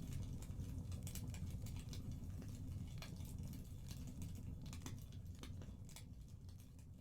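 Wood fire in a fireplace crackling, with scattered pops over a low rumble, slowly fading out near the end.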